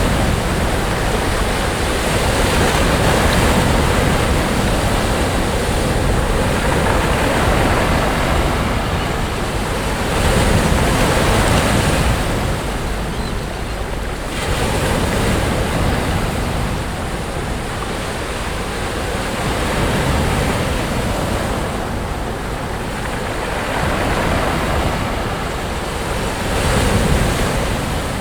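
Sea surf breaking and washing onto a beach: a continuous rushing wash that swells and ebbs every few seconds as each wave comes in.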